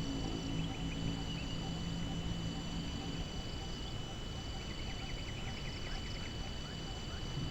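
Outdoor ambience of wind rumbling on the microphone under a steady, high-pitched insect chorus. A low hum fades out about three seconds in, and a few faint chirps come near the end.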